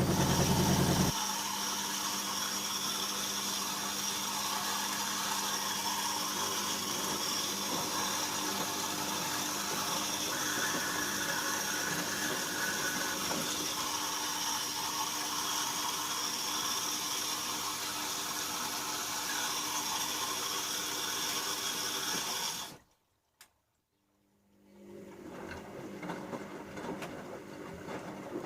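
Bauknecht Super Eco 6413 washing machine taking in water: a steady rush of water into the machine that cuts off suddenly near the end, followed by a single click in the quiet gap. A quieter machine sound then starts up again.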